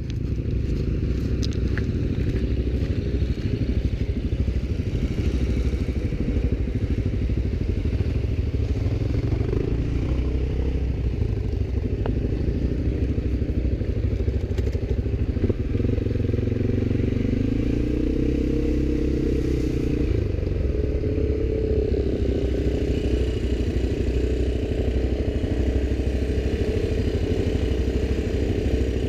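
ATV engine running steadily, its revs rising and falling for a few seconds past the middle.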